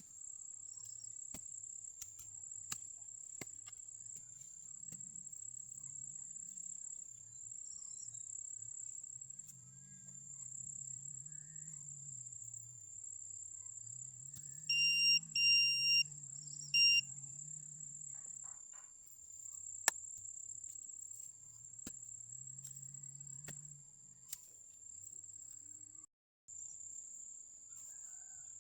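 Crickets trilling steadily as one high, unbroken tone, over a low hum that swells and fades. About halfway through, a metal detector gives a quick run of three short, loud beeps and then one more, signalling a target.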